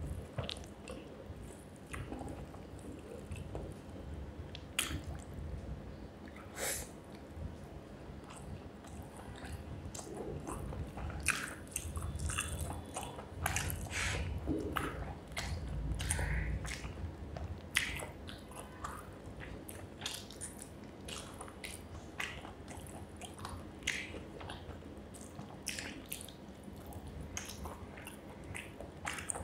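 Close-miked chewing and wet mouth sounds of someone eating rice with fish curry, with many short sharp clicks and smacks scattered throughout.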